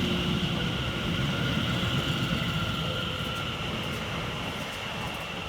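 Greater Anglia Class 720 electric multiple unit moving along the platform: a steady high whine over low running rumble, fading slightly toward the end.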